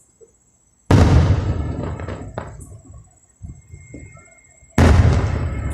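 Two loud aerial firework bursts about four seconds apart. Each is a sudden bang that trails off over a second or so.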